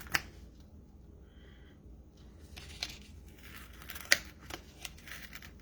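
Paper and cardstock being handled on a craft desk: light rustling and scraping with a few sharp clicks, the sharpest about four seconds in.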